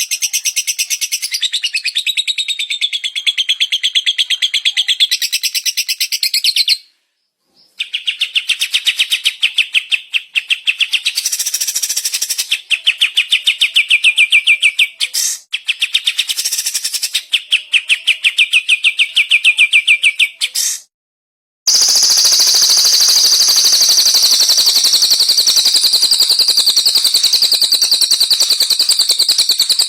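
Recorded songbird song: very fast, rapidly repeated high trills in three stretches, each broken off by a brief silence about 7 and 21 seconds in. The last stretch is a steadier, even trill.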